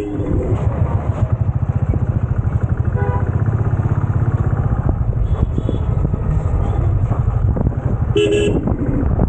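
Motorcycle engine running at road speed with a steady low throb, and a short horn honk right at the start and again about eight seconds in.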